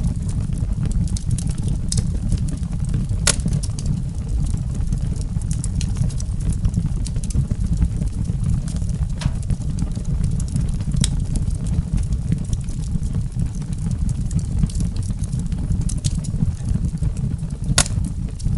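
Campfire burning with a steady low rumble and a few sharp crackling pops, the loudest near the end.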